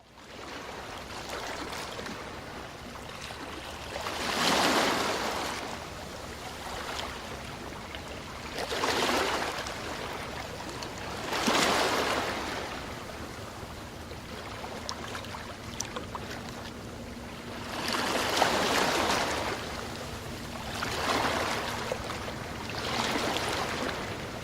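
Ocean waves washing onto the shore: a steady hiss of surf that swells into a louder breaking wave every few seconds, about six times.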